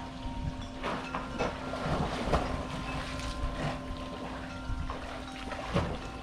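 Disneyland Railroad steam train at the station: a steady hum with scattered knocks and clanks.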